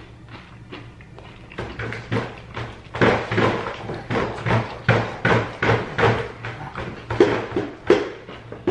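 Close-miked chewing of crispy fried chicken, the breading crunching in a quick steady rhythm of about three chews a second. It starts faint and grows louder over the first three seconds.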